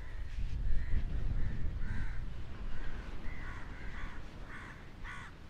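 Birds calling over and over, short calls about two a second, over a low rumble.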